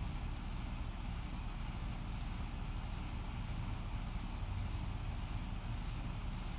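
A small bird giving short, high chirps at irregular intervals, sometimes two in quick succession, over a steady low rumble.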